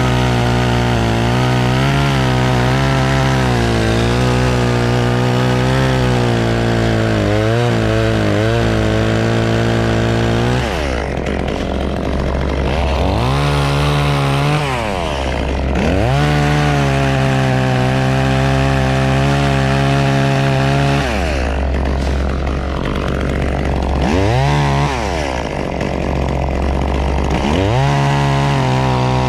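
Two-stroke chainsaw run at full throttle while cutting walnut wood. It drops to idle and revs back up several times: about 11 s in, again near 15 s, for a few seconds after about 21 s, and once more before climbing back to full revs near the end.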